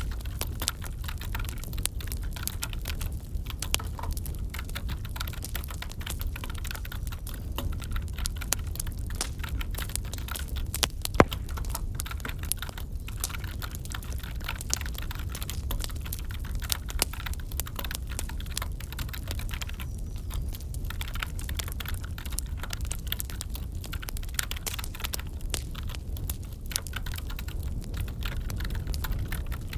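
Wood fire crackling in a fireplace: a steady low rumble of burning logs with irregular sharp pops and snaps, one much louder pop about eleven seconds in.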